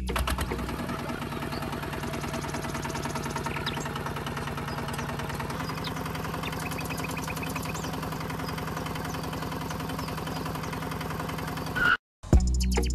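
The small motor of a home-built model tractor running steadily with a fine, even buzz, then cutting off abruptly near the end.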